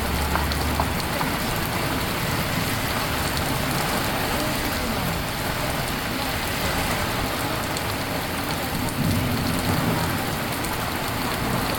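Steady rushing of a valley stream, an even hiss of water with no breaks.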